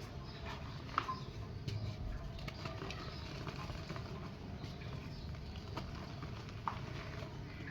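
Dry mini clay pots crumbling by hand: scattered small crackles and ticks over a steady low rumble, with two sharper cracks about a second in and near the end.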